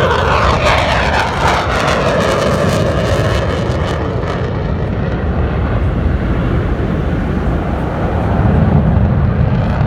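Airplane passing low overhead: a loud engine whine that falls in pitch over the first two seconds, then a heavy steady rumble as it moves away.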